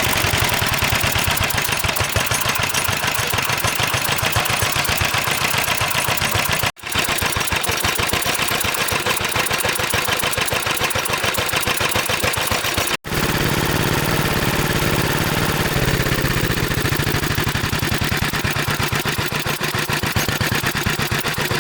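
Restored 1980 15 hp diesel engine running steadily with a fast, even beat, broken by two brief gaps.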